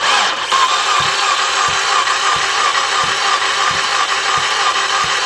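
Starter cranking a 2014 Volkswagen Beetle's 2.0 turbo four-cylinder, which does not fire, during a compression test with a spark plug out. The sound starts abruptly: a steady whirring with a low thump about every two-thirds of a second.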